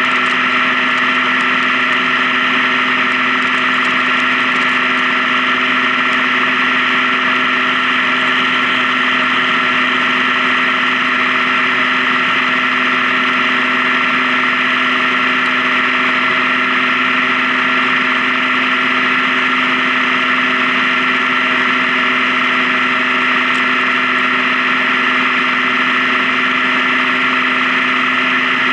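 Honda Gold Wing motorcycle running at a steady cruising speed: an unchanging engine drone with steady tones over a constant hiss.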